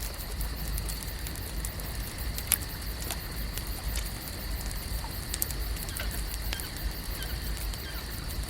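Lake-shore nature ambience: a steady high-pitched hum and low rumble, with frequent small crackles and ticks scattered through it, the sharpest about two and a half seconds in.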